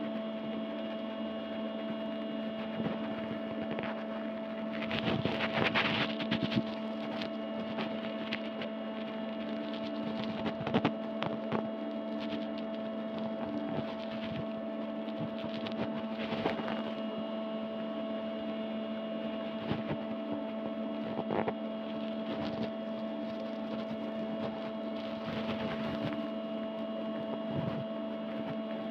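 A steady hum of several fixed tones, with scattered clicks and short rustles over it, the loudest a cluster about five to seven seconds in and another near eleven seconds.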